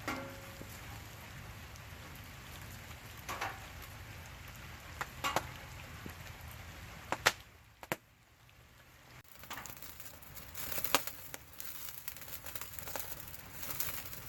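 Campfire crackling, with sharp snaps and pops over a steady hiss of rain. The sound drops away briefly about eight seconds in, then the popping comes back more often.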